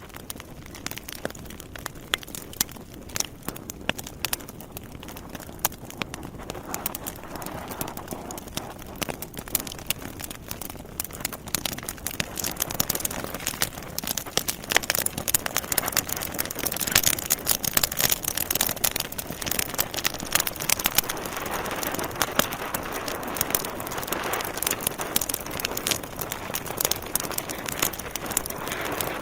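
Wood logs burning in a fireplace, crackling with dense, irregular pops and snaps over a steady hiss, growing louder over the first dozen seconds or so.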